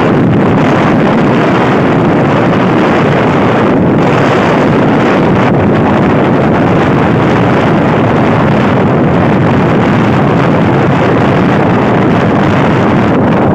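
Steady, loud rushing noise of an electric multiple unit local train running at speed, heard from outside the coach: wind buffeting the microphone over the train's running noise on the track.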